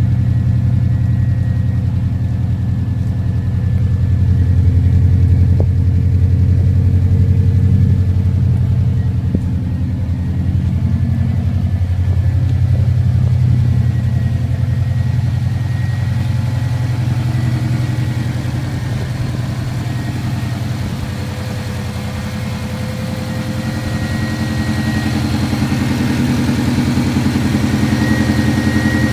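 Old Subaru car's engine running steadily, its level swelling and easing a little, with a slight dip a little past two-thirds of the way through.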